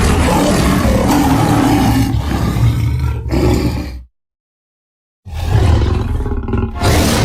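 Lion roar sound effects: a long, rough roar cuts off about four seconds in, then after a second of silence another begins and swells louder near the end.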